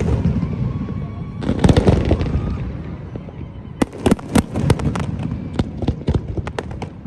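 Firecrackers popping and crackling: a dense burst of crackling about a second and a half in, then strings of sharp, rapid cracks from about four seconds on.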